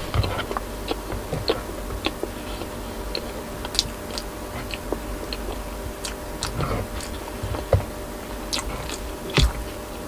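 A person chewing a mouthful of rice and boiled vegetables up close, with many short wet clicks and smacks of the mouth.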